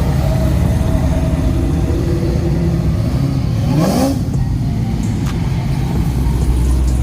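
Car engine running steadily, revved once about halfway through with a rising then falling pitch, and starting to rev again at the very end.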